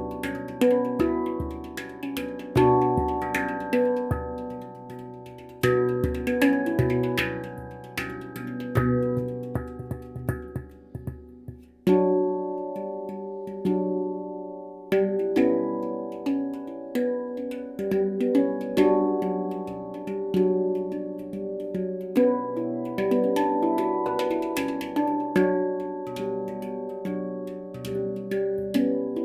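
Stainless-steel Baopan Ursa Minor handpan played with the hands: quick struck notes ringing over one another in a flowing melody with deep bass hits. About eleven seconds in the playing thins out and fades, then a loud note restarts it.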